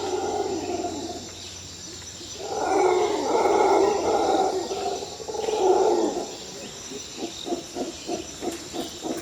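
Electric motor and gear drive of a radio-controlled crawler truck whining and growling under throttle in three long bursts, then a run of quick short pulses, about three or four a second, near the end.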